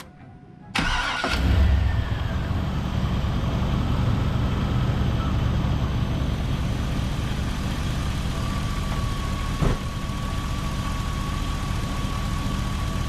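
A 2000 Chevrolet Silverado 2500 pickup's engine starts about a second in, runs loud briefly as it catches, then settles into a steady idle. There is one sharp knock near the end.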